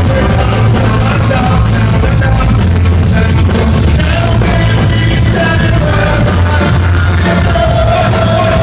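Live band music played loud, with a heavy bass line and a steady drum beat.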